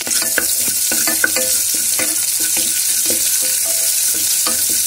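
Ginger, green chillies and asafoetida sizzling in hot ghee in an aluminium pressure cooker, with a steady frying hiss. A spoon stirring them scrapes and clinks against the pot again and again, each clink ringing briefly.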